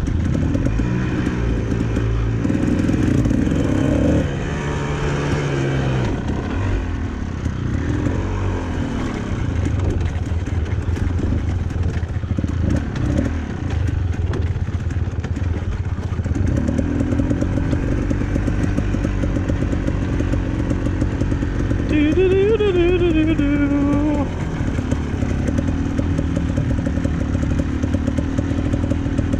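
Dirt bike engine running as the bike is ridden along a trail, its pitch rising and falling with the throttle, with a short rev about two-thirds of the way through.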